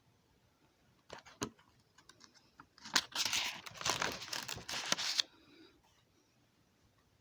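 Crinkling and rustling handling noise: a few scattered clicks, then a dense burst of crinkling about three seconds in that lasts a couple of seconds and stops abruptly.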